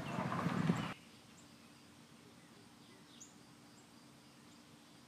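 Faint outdoor background with a few short, high bird chirps scattered through it. It follows a louder rush of voice and room noise that cuts off abruptly about a second in.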